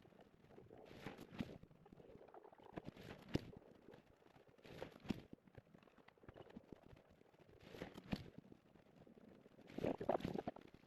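Short gritty scraping and crunching strokes, one cluster every one to two seconds, the loudest near the end.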